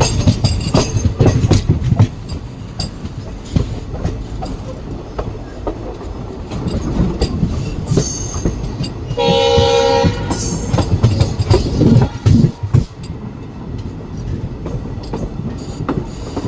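Indian Railways train passing, its wheels clattering and knocking over the rail joints, with a short locomotive horn blast about nine seconds in.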